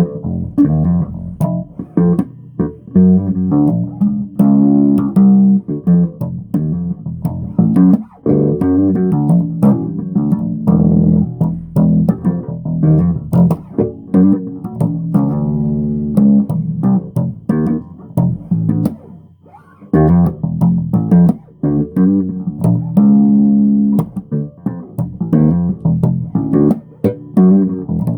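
Bass guitar played solo, a steady run of plucked notes and riffs, with brief breaks about eight seconds in and just before twenty seconds.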